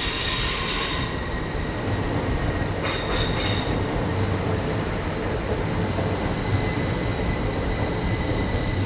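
Heathrow Express Class 387 electric train pulling out, its wheels squealing loudly in the first second and then in a few short squeals, over the steady rumble of the moving train.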